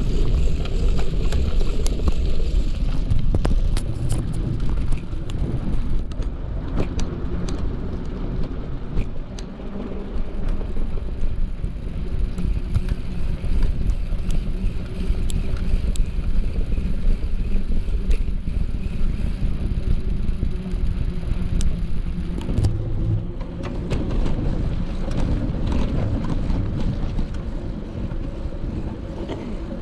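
Steady rumble of wind on the microphone and tyres rolling on a moving bicycle, with scattered clicks and rattles, most of them in the first ten seconds.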